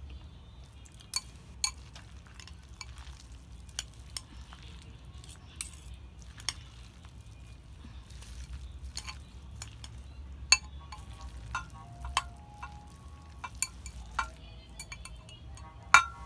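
Utensils clinking and scraping against a bowl while noodles are stirred and picked up for eating: a dozen or so sharp clinks at irregular intervals, the loudest one near the end.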